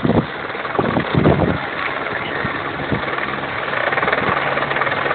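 Firefighting helicopter hovering low, a steady rotor and turbine noise with low tones beneath. Heavy low thumps sound over the first second and a half.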